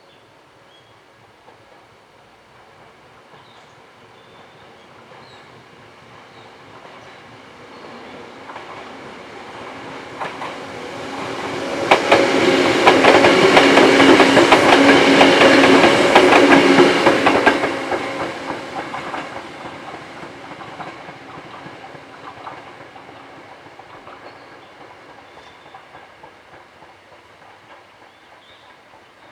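Hakone Tozan Railway 1000 series electric train passing. It approaches and grows louder, goes by loudest for about five seconds with wheels clicking over the rail joints, then fades away.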